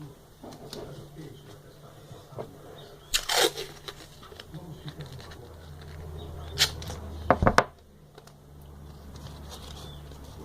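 Handling noises as a small handmade model motorcycle is fixed to a wall: a short rustling scrape about three seconds in, then a few sharp knocks and a thump about seven seconds in, over a low steady hum.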